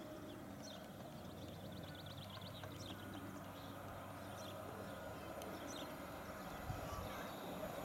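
Electric passenger train, an SNCB class 13 locomotive with double-deck coaches, approaching from a distance: a low steady rumble that grows slightly louder, with a few low thumps near the end. Birds chirp over it, with a rapid trill about two seconds in.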